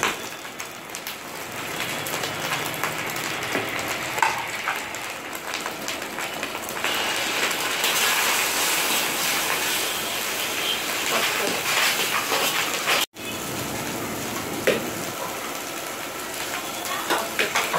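Vegetables stir-frying in a large wok: a steady sizzle with the spatula scraping and knocking against the pan. The sizzle grows louder about seven seconds in.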